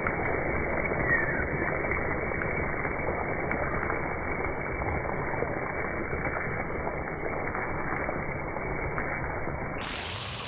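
Steady, muffled background noise with no distinct events.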